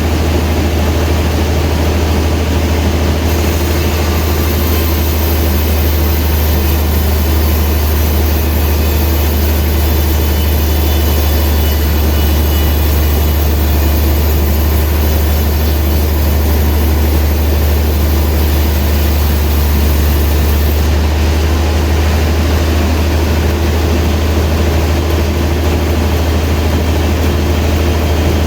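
Sawmill machinery running with a loud, steady low drone. A high hiss joins a few seconds in and stops about two-thirds of the way through.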